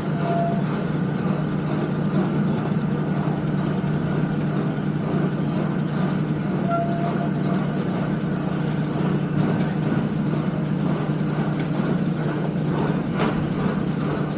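Steady running rumble of a narrow-gauge steam train on the move, with a couple of faint brief squeaks and a single sharp clank near the end.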